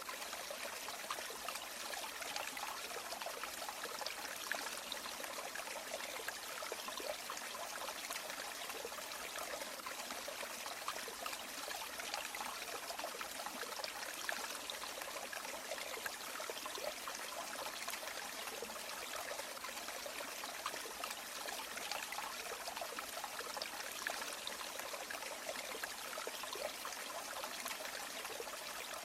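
River water flowing steadily, a continuous babbling and trickling rush.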